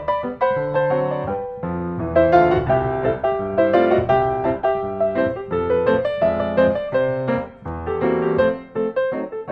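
Background piano music: a steady stream of struck notes and chords at a moderate pace.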